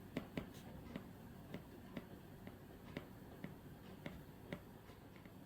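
Faint, sharp tapping clicks, about two a second at uneven spacing, over quiet room tone.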